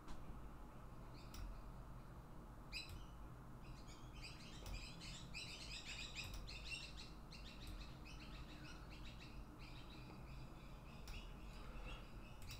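Faint chirping of small birds, busiest in the middle, with a few soft clicks scattered through.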